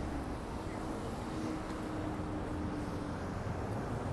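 City street background: a steady low rumble of traffic, with a faint held hum for a couple of seconds in the middle.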